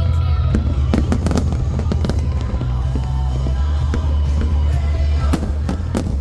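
Aerial fireworks bursting: many sharp pops and crackles over a continuous deep rumble of booms.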